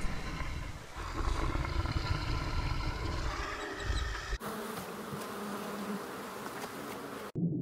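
Flying insects buzzing with a steady drone, over a low rumble of wind. The sound cuts off abruptly about four and a half seconds in, and a quieter, steady low hum follows.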